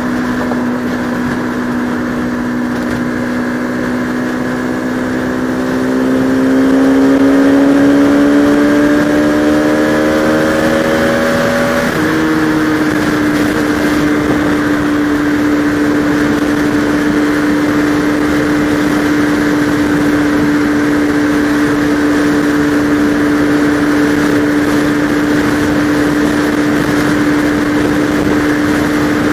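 Bajaj Pulsar RS200's single-cylinder engine under way: its note climbs for about six seconds as it accelerates, drops at a gear change about twelve seconds in, then holds a steady cruising note. A steady rush of noise runs underneath.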